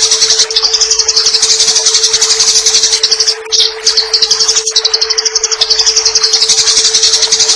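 Eurasian tree sparrows (burung gereja) in a 'fighting' chatter: a fast, continuous run of high, sharp chirps that breaks briefly about halfway through. A steady low hum runs underneath.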